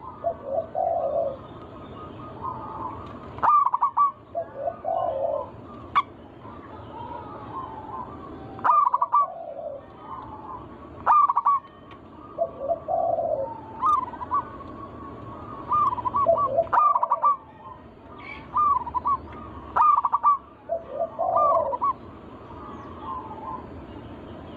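Zebra doves (perkutut) cooing: rolling, warbling phrases repeat every couple of seconds, with some sharp clicks among them.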